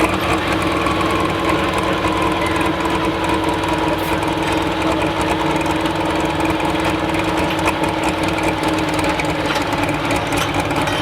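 Modified Case pulling tractor's engine running hard at steady high revs, its pitch easing slowly down over the seconds.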